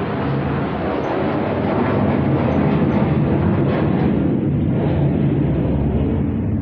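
Aircraft passing overhead: a loud, steady engine noise that builds over the first couple of seconds and then holds.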